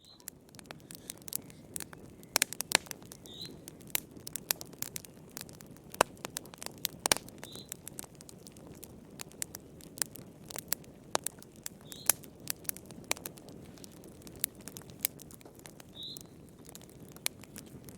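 Wood fire crackling in a fireplace: irregular sharp pops and snaps of varying loudness over a low steady rush of the flames. A short high chirp recurs about every four seconds.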